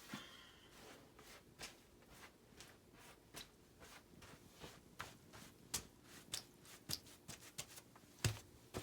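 Soft footsteps on water-soaked carpet in a flooded basement: a series of short, irregular steps and taps. The steps grow heavier near the end.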